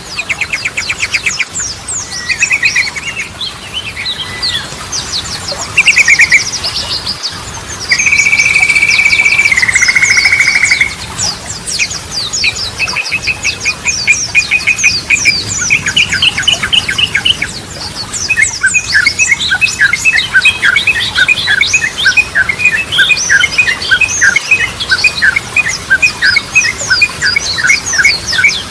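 Yellow-vented bulbul (trucukan) singing in varied, fast phrases: chirping trills, a long buzzy rattle about eight to eleven seconds in, then rapid repeated chattering notes through the second half.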